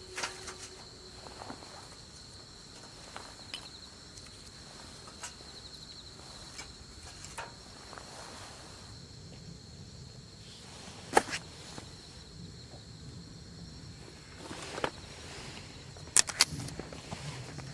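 Steady high-pitched insect trill, crickets, with scattered sharp clicks and knocks of handled gear, one loud click about eleven seconds in and a quick run of clicks near the end.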